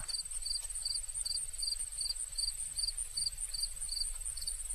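High-pitched insect trill, cricket-like, going on steadily in rapid even pulses.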